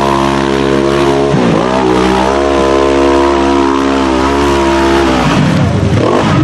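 Side-by-side UTV engine held at high revs, with a brief dip and recovery about a second and a half in. The tone breaks up into a rougher, noisier sound near the end.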